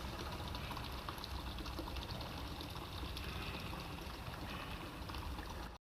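Faint, steady background hiss with a low rumble, left after the karaoke backing music has faded out; it cuts off abruptly near the end.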